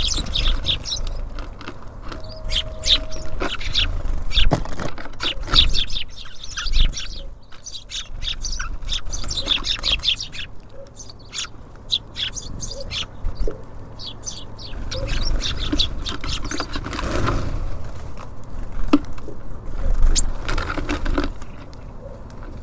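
Small songbirds at a bird feeder chirping and calling in quick, short notes throughout, with scattered sharp ticks and taps among them. A steady low rumble runs underneath.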